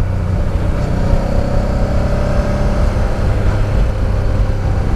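Honda Deauville motorcycle engine running steadily at a relaxed cruise, with a constant low rumble of road noise.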